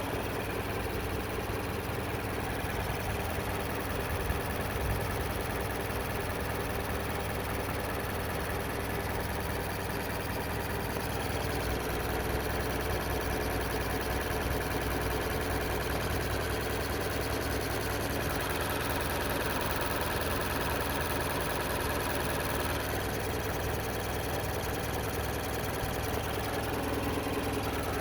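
2019 Mazda3 GS four-cylinder engine running steadily with no change in speed. The owner finds it noisier and vibrating more than it should for a two-day-old car.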